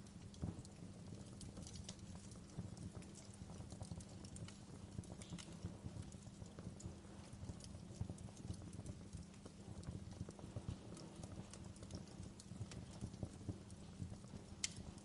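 Wood campfire crackling steadily with dense small snaps, and a few sharper pops scattered through.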